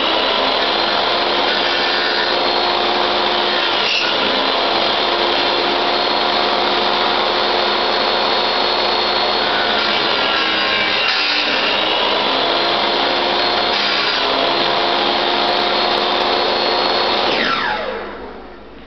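Small benchtop table saw running steadily with a high whine while a pine board is fed across its blade to chip out a hand hold. About 17 seconds in the saw is switched off, and its motor winds down with falling pitch.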